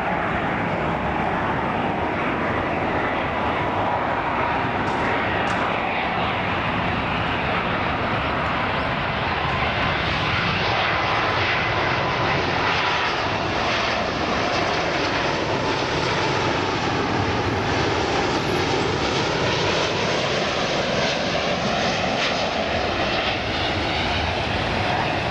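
Boeing 777-200ER twin-engine jet airliner landing, a loud continuous jet roar with a faint steady whine in the first half.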